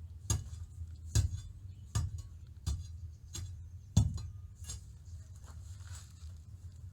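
A series of sharp knocks or taps, roughly one every three quarters of a second, over a low steady hum; the knocks fade after about five seconds.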